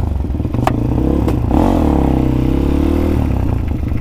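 Crossfire RM250 250 cc dirt bike's engine running loud through its exhaust, blipped once about a second and a half in, the pitch rising and falling back, then settling to a steadier lower note.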